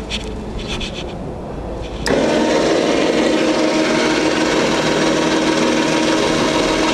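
ATV's front electric winch motor starting suddenly about two seconds in and running steadily.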